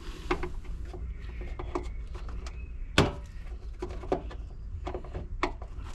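Screwdriver working a stuck car trim fastener loose: scattered small clicks and knocks of metal on plastic, with one sharper knock about halfway through, over a steady low hum.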